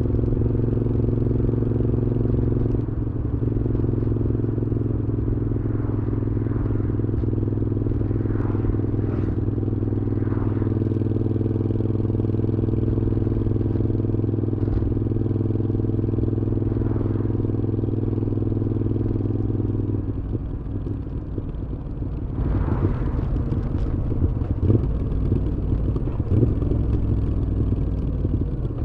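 Moto Guzzi V7's air-cooled transverse V-twin through a Mistral exhaust, recorded on the moving motorcycle: a steady running note for about twenty seconds. It then turns rougher and more uneven, dipping briefly and picking up again.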